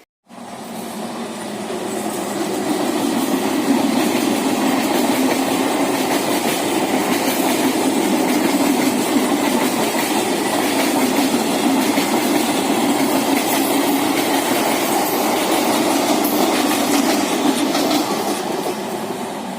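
Indian Railways EMU passenger train running past on the track with a steady, dense rail noise. It sets in abruptly, builds over the first few seconds, holds, and eases off near the end.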